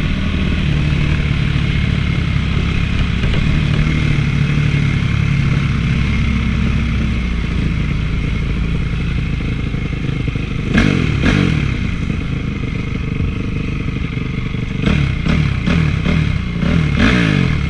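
Honda CRF450 single-cylinder four-stroke motocross engine running steadily while ridden, with a couple of quick bursts of changing revs and sharp knocks about eleven seconds in and again near the end.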